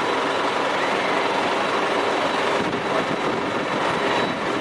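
Boeing 747-400 freighter's jet engines running loud and steady: an even rush of noise with a thin high whine over it, loud enough to shake the camera.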